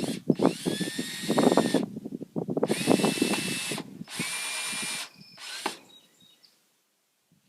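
Power drill running in four short bursts, its motor whine climbing and then holding steady in each, with knocks of wood and metal among them: screws being driven to mount a gate latch.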